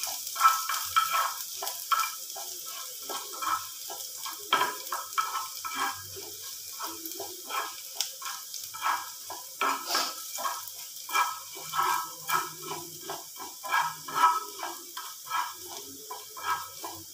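Chopped ginger and garlic sizzling in a little hot oil in a frying pan, stirred with a slotted spatula that scrapes the pan in short, irregular strokes.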